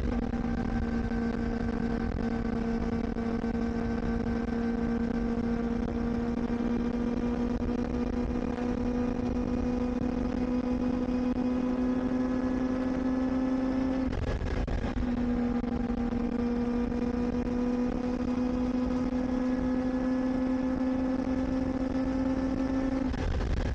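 Kawasaki Ninja ZX-4RR's inline-four engine under way at steady, moderate revs, its note climbing slowly and twice briefly breaking off and picking up again, about two-thirds through and near the end. It is kept out of the high revs because the bike is new and still being run in. Low road and wind rumble lies underneath.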